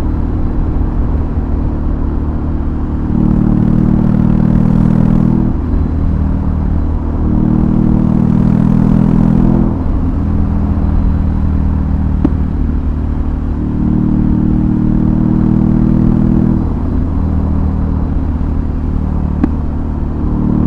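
BMW R18's 1802 cc boxer twin through a custom exhaust, running under way; it rises to three louder stretches on the throttle and eases off between them.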